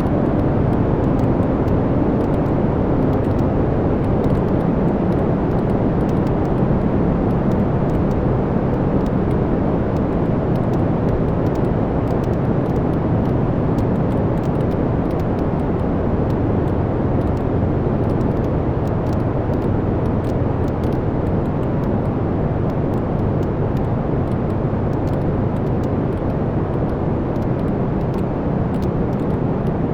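Wood fire burning in a fireplace: a steady low rush of flames with frequent small crackles and pops from the logs.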